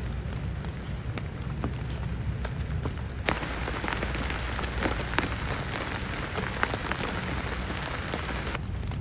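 Heavy rain falling, with many individual drops ticking on a surface over a low steady rumble. About three seconds in the rain abruptly becomes denser and louder, and it drops back just as suddenly near the end.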